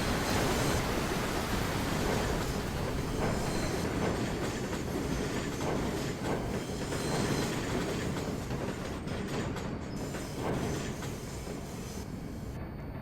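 New York City subway train running along the track in the station, with a few faint knocks of the wheels over rail joints; the noise slowly fades.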